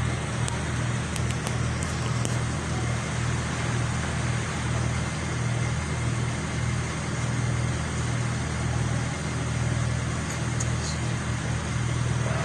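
Car engine idling steadily, a low hum that wavers slightly.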